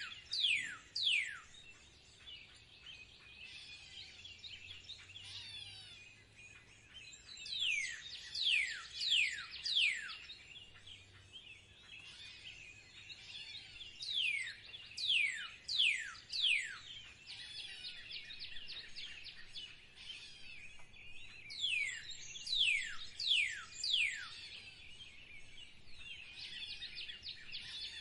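Wild songbirds singing: one bird repeats a phrase of four or five sharp, falling whistles about every six or seven seconds, over steady background twittering from other birds.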